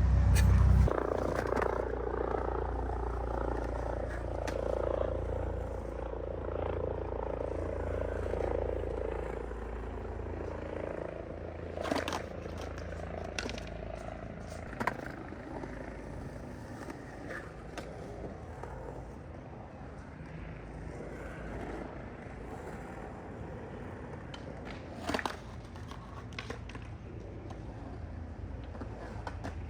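Skateboard on loose trucks rolling and pumping around a skatepark bowl: a steady rumble of the wheels, with a few sharp clacks as the board is tic-tacked and the trucks lifted through the turns.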